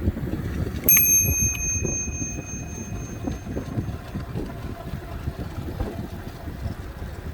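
Bicycle bell rung about a second in, its bright ring fading over a couple of seconds, over steady wind rumble on the microphone from riding.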